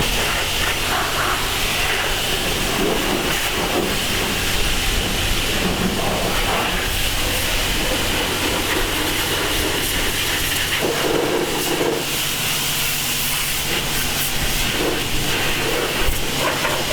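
Car wash pressure wand spraying water steadily into an engine bay: a continuous hiss with a low, steady hum underneath.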